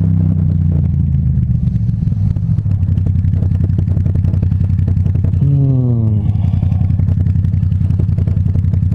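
2014 Yamaha MT-07's parallel-twin engine with a titanium Akrapovic exhaust, running steadily under way. About five and a half seconds in, the revs fall away as the bike rolls off the throttle, and the engine then runs at low revs as the bike slows to a stop.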